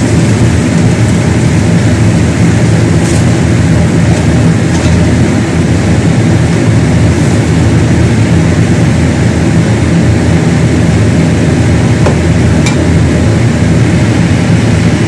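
A loud, steady mechanical hum with a rushing hiss over it, unchanging throughout, with a few faint ticks.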